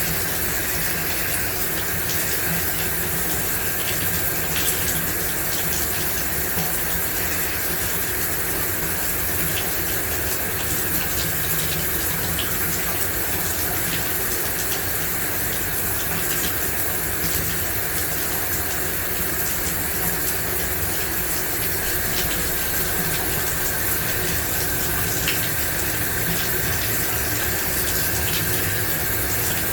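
A shower running steadily, water spraying and splashing in an even hiss with faint patters of droplets.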